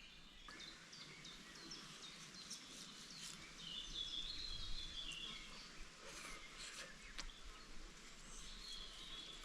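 Birds chirping and calling in woodland, with a short warbled phrase about four seconds in and another near the end, over a faint background hiss.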